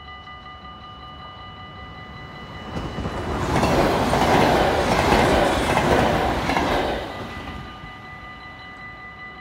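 An NS double-deck passenger train passes over a level crossing. Its wheel and running noise builds up about three seconds in, stays loud for about four seconds and fades away near the end. Throughout, the crossing's warning bell rings with a steady ringing tone, drowned out while the train goes by.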